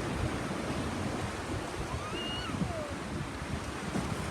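Wind buffeting the microphone over the steady rush of sea water around a moving boat.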